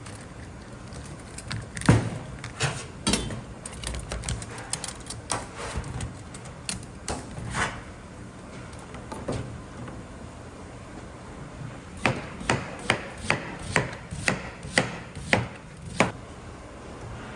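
Knife chopping on a wooden cutting board: scattered knocks, then a steady run of about nine chops, roughly two a second, near the end.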